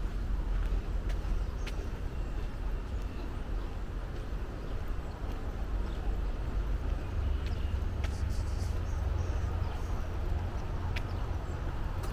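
Forest trail ambience: a steady low rumble under scattered light footstep clicks on the path and a few faint, short bird chirps.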